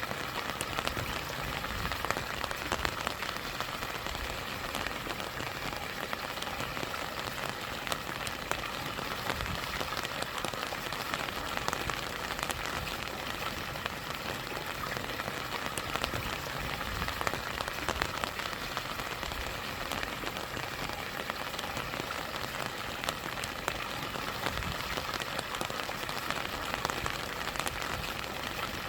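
Steady rain pattering on a surface, with many small sharp drop ticks, over the even rush of a stream and a small waterfall.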